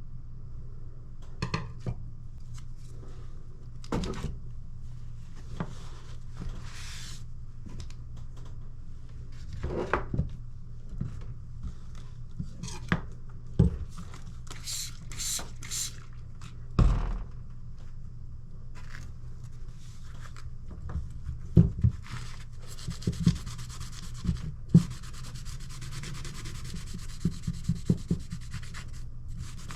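Kitchen knife blade being stroked across a sharpening stone, a gritty scraping that comes in short runs, with scattered knocks and taps as the knife and stone are handled. A steady low hum runs underneath.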